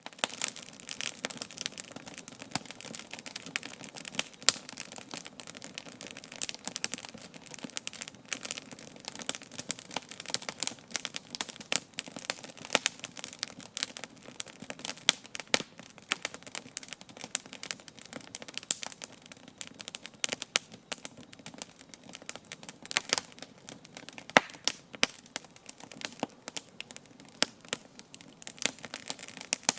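Wood campfire crackling and popping, many sharp irregular snaps over a soft steady hiss of burning.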